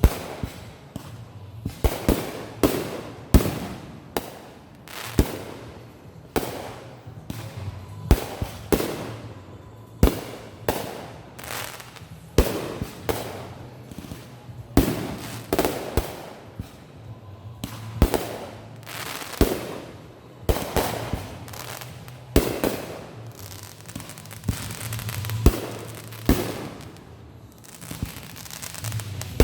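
Consumer fireworks going off in a long string of sharp bangs, roughly one a second and sometimes two in quick succession, each trailing off briefly.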